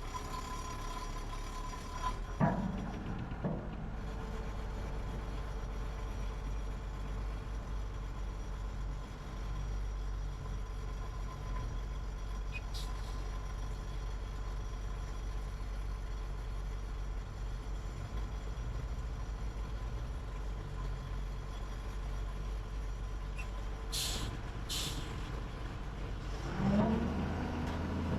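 Heavy diesel engines of construction machinery running steadily with a low rumble. There is a short knock about two seconds in, and two brief hisses near the end, typical of truck air brakes. Just before the end an engine revs up.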